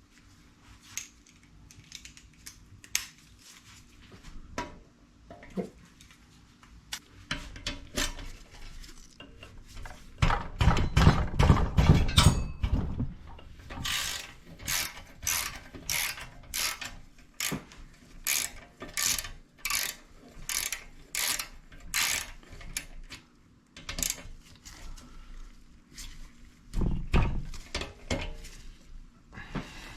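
Socket ratchet wrench clicking in even strokes, about two a second, as the exhaust muffler's mounting nuts are worked loose. Scattered clicks and taps come before, and a loud clattering stretch about ten seconds in.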